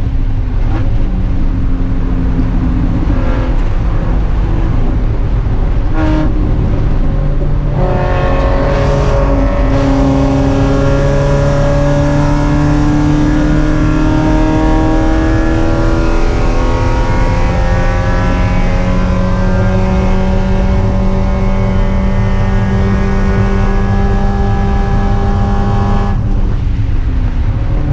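Spec Miata's four-cylinder engine at race pace: two brief lifts about six and seven seconds in, then a long pull with the pitch climbing steadily, held high, and falling away near the end.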